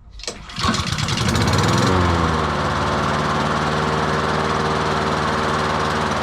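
Honda 19R lawn mower's single-cylinder four-stroke engine pull-started, catching at once and speeding up briefly, then settling about two seconds in to a steady run at throttle.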